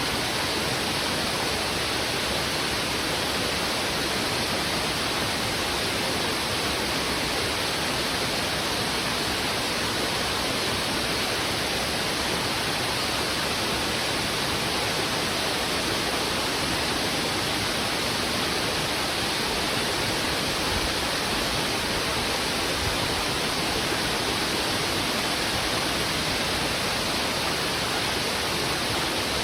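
Heavy river water rushing fast over rocks: a steady, unbroken roar of flowing water.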